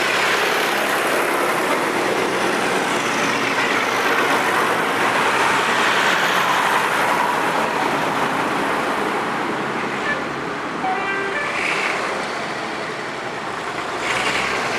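Tractor engines running as a procession of tractors drives past, a steady mechanical noise that eases off a little about ten seconds in.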